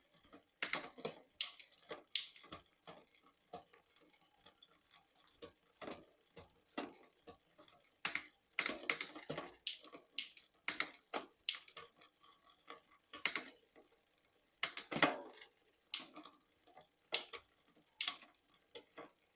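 Bicycle rear derailleur shifting and the chain clicking over the cassette cogs as the cranks are turned, a run of irregular clicks and ticks. The chain won't settle on the third cog: a SRAM cassette on a Shimano Deore drivetrain that is not doing well, and a derailleur hanger that might be bent.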